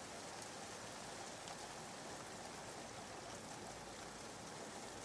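Soft, steady rain ambience used as background white noise, an even hiss of rainfall without distinct drops or thunder.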